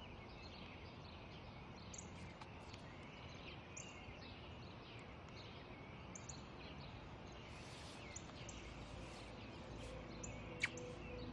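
Faint outdoor ambience of small birds chirping repeatedly over a soft background hiss, with one sharp click near the end. Low music tones fade in over the last couple of seconds.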